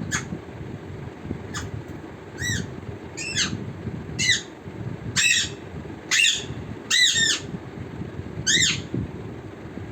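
Parrot squawking: a series of about seven short, high calls, each rising and then falling in pitch, spread over several seconds, over a steady low background hum.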